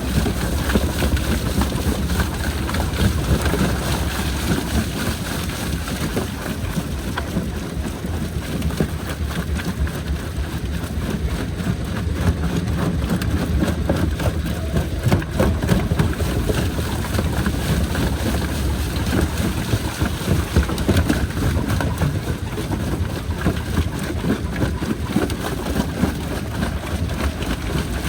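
Jaw crusher running and crushing rock: a steady heavy rumble with constant small cracks and knocks of stone breaking.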